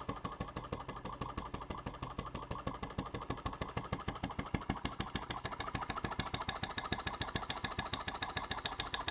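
Flame-eater (vacuum) model engine running, its valve and piston clacking in a fast, steady rhythm.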